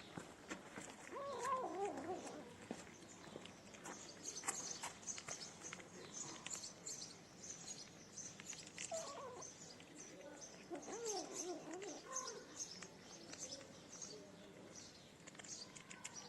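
Cat or kitten meowing, a wavering call near the start and a few more in the second half.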